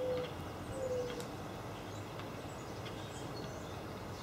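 Birds calling over steady outdoor background noise: two short, low, slightly falling calls in the first second, then faint high chirps scattered throughout.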